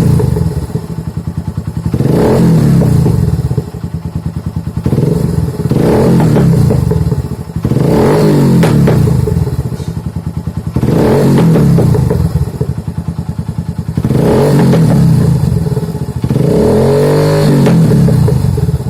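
Kawasaki W175's single-cylinder four-stroke engine through an aftermarket double-silencer exhaust, revved again and again in surges of a second or more, each time falling back to a pulsing idle. The exhaust note is deep, and its carburettor is still on stock jetting, which the owner says needs adjusting to stop it popping.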